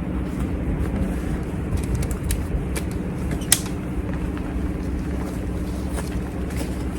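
A steady low mechanical hum, with a few light clicks and one sharp click about three and a half seconds in.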